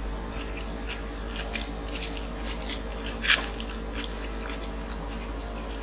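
Close-up mouth sounds of people biting into and chewing sauce-glazed Korean fried chicken: wet chewing with scattered small crackles, one louder crunch about three seconds in, over a steady low hum.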